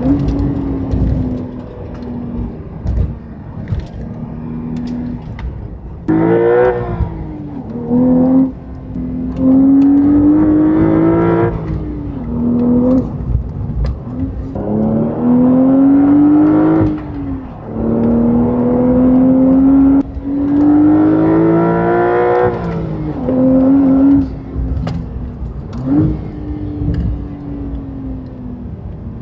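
Porsche 992 Carrera T's twin-turbocharged 3.0-litre flat-six with an aftermarket titanium exhaust, running steadily at first, then pulling hard through the gears. There are about five rising surges of a few seconds each, and the revs drop sharply at each shift.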